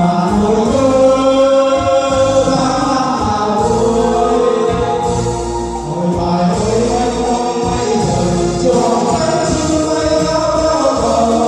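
Music: a choir singing long, held notes over instrumental accompaniment.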